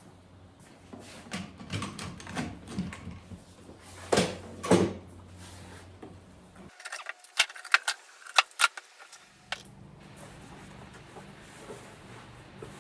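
Handling noises as a wooden drum shell is set up on a lathe. A series of knocks and clunks, two louder ones about four seconds in, is followed by a quick run of sharp clicks, then a faint steady hum.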